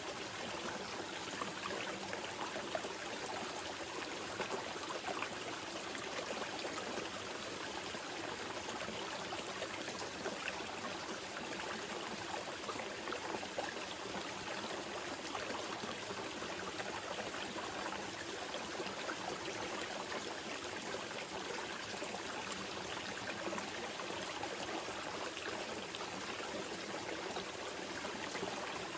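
Small mountain river flowing gently over stones: a steady wash of running water with fine trickling and splashing detail.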